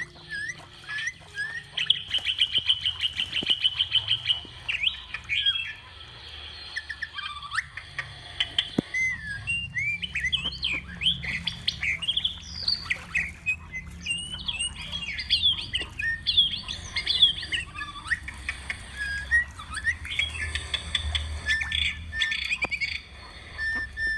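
Many birds calling at once: quick chirps and short up-and-down calls, with a fast trill about two seconds in and again near the end.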